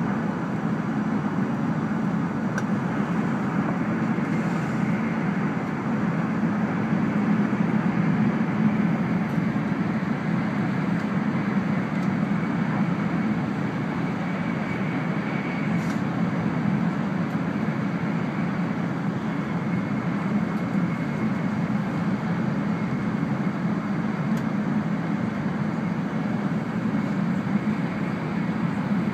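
Steady running noise of an E2 series Shinkansen at speed, heard from inside the passenger cabin: an even low rumble with no breaks.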